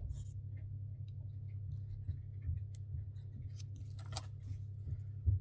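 Soft clicks, taps and rustles of paper being handled and pressed down while it is glued, with a couple of sharper taps near the end, over a steady low hum.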